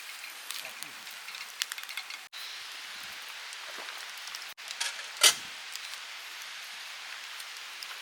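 Food sizzling over heat, a steady hiss with scattered crackles and pops, with one sharp knock a little after five seconds.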